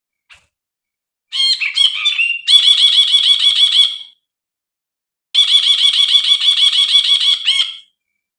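Brinji bird calling: a short run of varied notes, then a fast, even chatter of the same note repeated about nine times a second. After a short pause, a second, longer chatter of that note follows.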